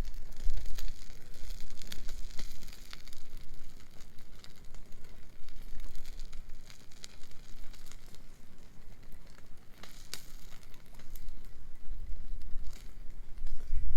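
Wood bonfire crackling, with irregular sharp pops throughout, over a low rumble that eases in the middle and swells again near the end.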